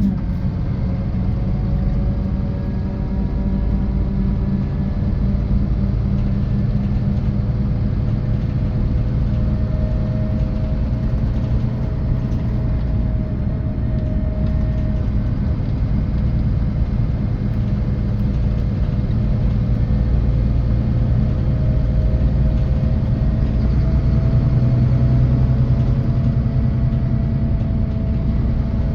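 Scania OmniExpress 360 K450EB coach under way, heard from inside: the 13-litre six-cylinder diesel and drivetrain make a steady low rumble, with a faint whine that drifts slowly up and down in pitch.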